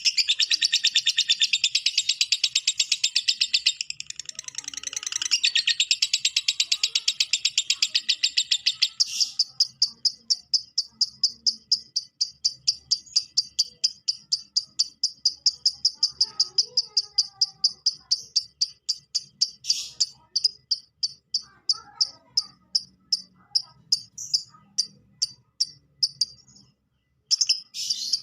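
Lovebird's long 'ngekek' chatter: a fast, unbroken run of sharp, high repeated notes, dense and loud for the first nine seconds, then thinner and higher, tapering off and breaking up near the end.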